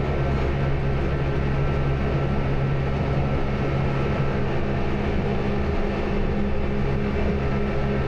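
A train running steadily, heard as a constant, even hum with a few low steady tones and no distinct clicks or changes.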